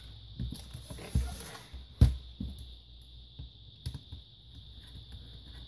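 Scattered light clicks and taps of small screws and a screwdriver being handled on a workbench during a laptop teardown, with one sharper knock about two seconds in.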